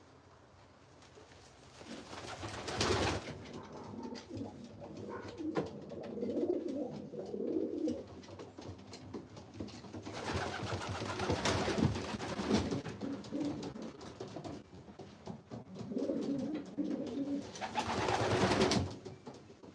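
Racing pigeons cooing, the low wavering coos coming in runs, with a few loud noisy bursts: one about three seconds in, a longer stretch around ten to twelve seconds, and another near the end.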